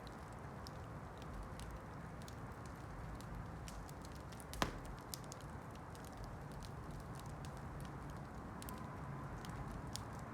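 Wood campfire burning, with frequent small crackles and snaps over a steady low hiss, and one louder pop about four and a half seconds in.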